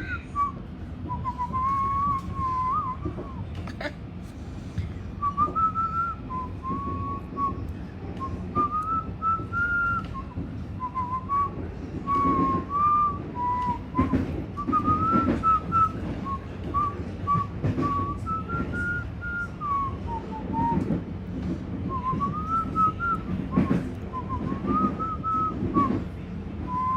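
A person whistling an improvised, wandering tune in short phrases with brief pauses, over the steady low rumble of a moving train carriage.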